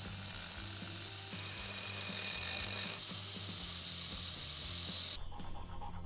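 Steady rasping noise of a power tool working on metal during the rust removal on a pistol, cutting off abruptly about five seconds in, over background music.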